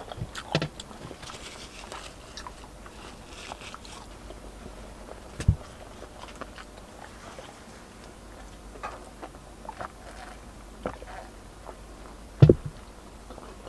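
Close-miked chewing and small mouth sounds of a person eating, with faint ticks throughout. Two short dull knocks, about five and about twelve seconds in, are the loudest sounds.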